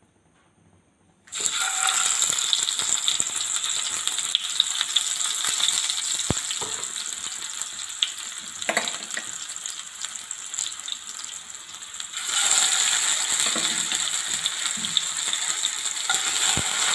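Marinated chicken pieces sizzling as they shallow-fry in hot oil, starting suddenly about a second in, with a few sharp clicks.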